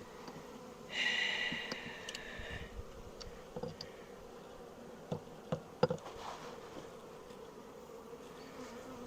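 A colony of honey bees buzzing steadily in an opened hive, with a higher-pitched whine for about two seconds near the start and a few light clicks about halfway through.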